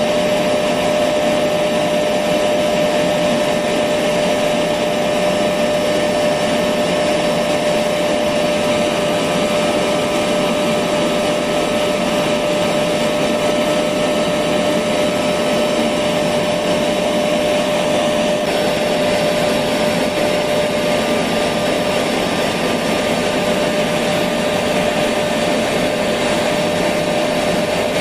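Electric vacuum cleaner running steadily: a continuous rushing motor noise with a steady mid-pitched hum through it.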